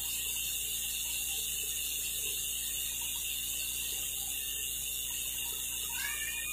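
Steady faint hiss of outdoor background noise. Near the end a distant animal call begins, falling in pitch.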